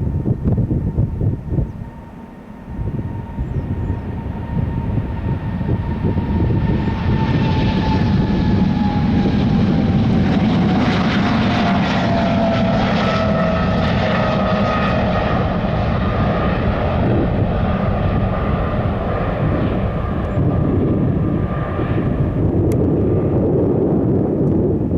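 Boeing 777-300 jet engines at takeoff power passing by: a heavy roar with a whine that slides down in pitch as the aircraft goes past. The roar is loudest from about eight to sixteen seconds in.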